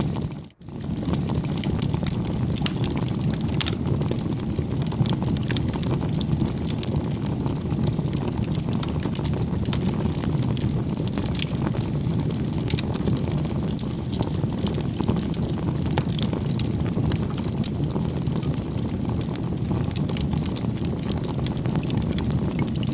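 Campfire crackling: a steady low rumble of burning wood with many small irregular pops and snaps. The sound cuts out very briefly about half a second in.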